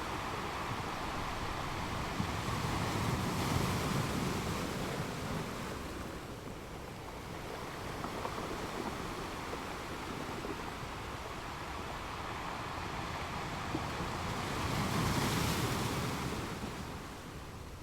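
Ocean surf breaking on a beach: a steady wash of waves that swells twice, once a few seconds in and again near the end.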